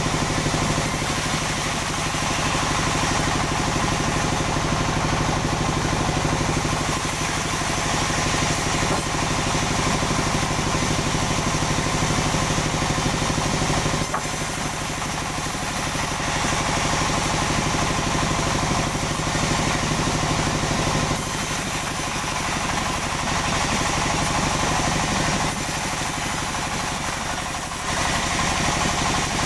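Sawmill engine running steadily, its sound shifting slightly a few times.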